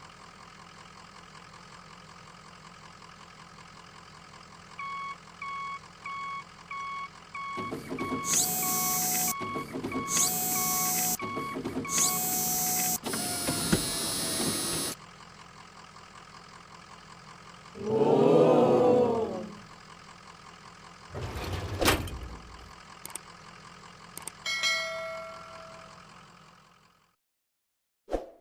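Steady engine-like hum, with a run of quick electronic beeps, then several loud blasts and a sharp thump; the hum stops near the end.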